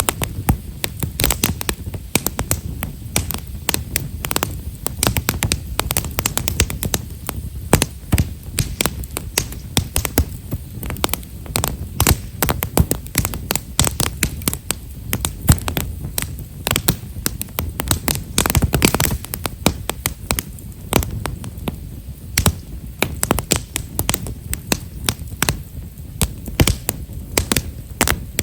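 Himeshara (Japanese stewartia) firewood burning in a campfire, crackling with many small, rapid pops over a low rumble.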